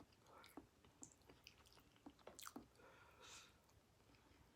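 Faint, wet chewing close to the microphone: soft mouth clicks and smacks with a couple of brief squishy bursts as a mouthful of butter-coated food is chewed.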